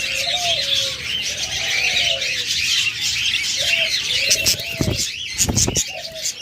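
Doves cooing again and again in low, arching calls over the dense, steady chirping of many small caged birds. A few bursts of wing flapping come about four and a half and five and a half seconds in, and again near the end.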